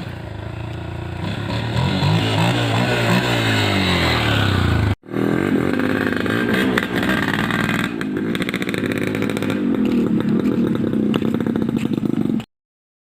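Loud engine revving, its pitch gliding up and falling back. The sound breaks off for an instant about five seconds in, runs on at a steadier, throatier pitch, and cuts off abruptly near the end.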